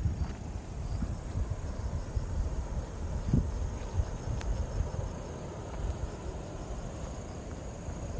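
Crickets trilling steadily over a louder, uneven low rumble with a few soft thumps.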